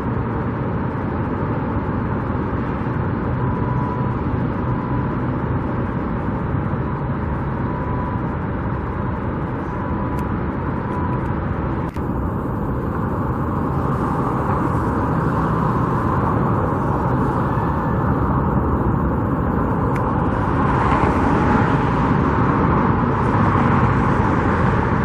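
Steady outdoor road-traffic noise, a continuous rumble and hiss of passing vehicles, growing slightly louder in the last few seconds.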